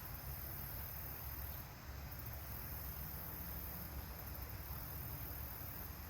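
Insects, crickets or similar, chirring in a steady high-pitched drone that dips briefly a couple of times, over a low rumble.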